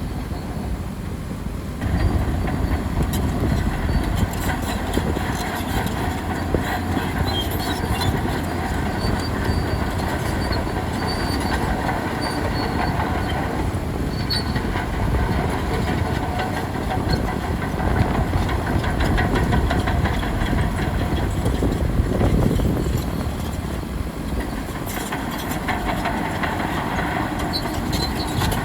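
Bulldozer at work: its diesel engine running hard under load while the steel crawler tracks clank steadily. The sound gets louder about two seconds in.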